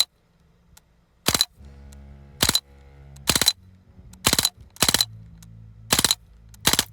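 Umarex Strike Force CO2 BB gun fired seven times in a semi-auto string, about a shot a second with uneven spacing, each a short sharp report.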